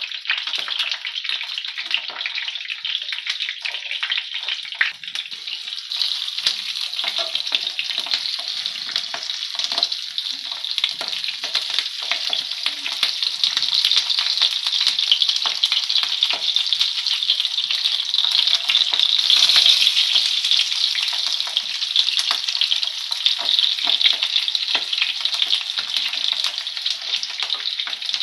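Stuffed capsicums (green bell peppers) shallow-frying in hot oil in a pan, a steady sizzle with dense crackling, a little louder in the middle.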